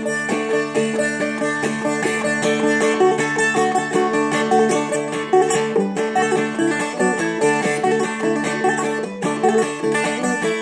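Seagull Merlin, a four-string dulcimer-style instrument, played clawhammer style: a steady run of quick picked and strummed notes over constantly ringing drone strings. A last strum is left ringing at the very end.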